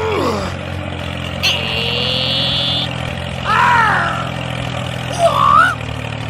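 Steady low hum of a vehicle engine. A high steady tone starts about one and a half seconds in and lasts over a second, and short sliding pitched calls come twice near the end.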